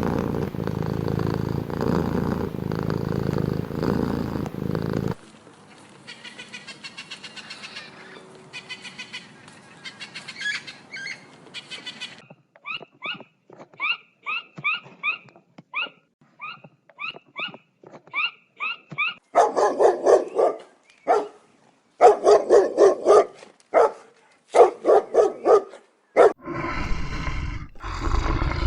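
A sequence of animal sounds: a cat purring for about five seconds, then quieter rapid pulsing calls, then a steady run of short high chirps, then a dog barking in loud separate barks, and near the end a big cat's roar beginning.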